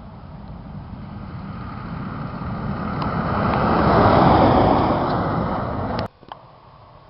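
A vehicle passing on a snowy road, its tyre and engine noise swelling as it approaches, loudest about four seconds in, then cut off abruptly about six seconds in.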